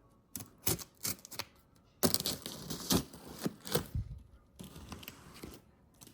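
Shipping packaging being torn open and handled by hand: a few sharp clicks and knocks, then stretches of tearing and crinkling with knocks.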